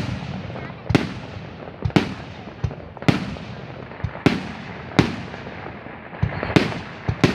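Fireworks display shells bursting in the sky, about one sharp bang a second, each bang trailing off in a long echoing rumble.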